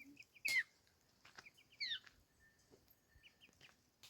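Birds chirping: two loud chirps that fall in pitch, about half a second and two seconds in, with short high chirps between them.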